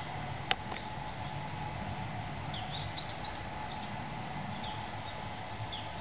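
Small birds chirping: short, quick, rising chirps in a cluster around the middle and a few more near the end, over a steady background hum. A sharp click about half a second in is the loudest sound.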